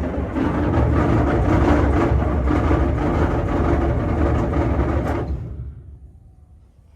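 Heavy diesel engine on a John Deere machine being cranked over by its starter with a fast, even rhythm, then stopping about five seconds in without catching. The engine won't fire because there is still air in its fuel system after bleeding.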